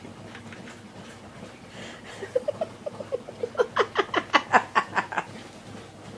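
A person laughing: soft giggles about two seconds in, building into a louder run of rhythmic ha-ha pulses, about four or five a second, that stops about a second before the end.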